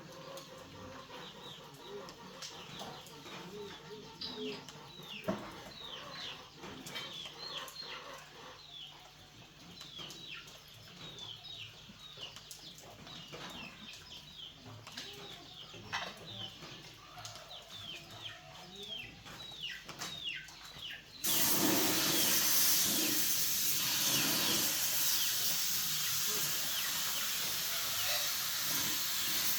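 Birds cheeping over and over in short falling chirps, with a few scattered clicks and taps. About two-thirds of the way through, a loud, steady hiss of rushing air or spray starts suddenly and keeps going.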